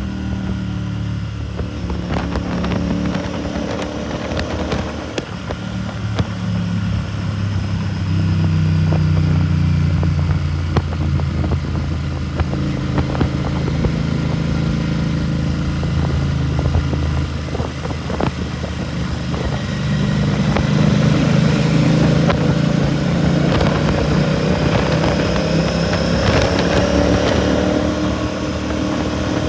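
Royal Enfield Continental GT 650's 648 cc parallel-twin running through a Red Rooster aftermarket exhaust while being ridden. The engine note swells and rises in pitch under throttle about a quarter of the way in and again about two-thirds in, easing off between.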